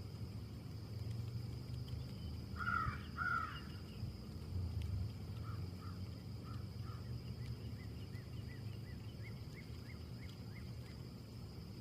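Wind with a steady low rumble, in which a bird calls twice about three seconds in. A long string of quick, faint chirps follows from about five seconds on.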